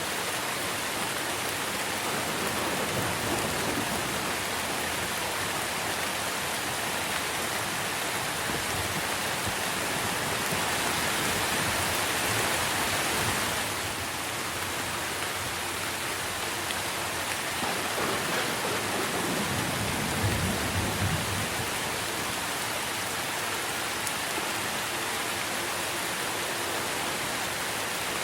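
Steady rain pouring onto tree foliage, with a low rumble of thunder swelling and fading about two-thirds of the way through.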